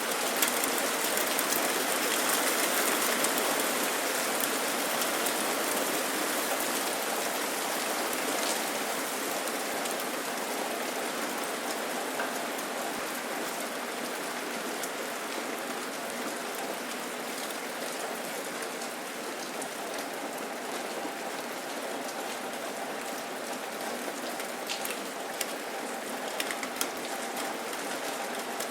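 Steady rain falling, with scattered sharper ticks of single drops hitting close by, a few more of them near the end.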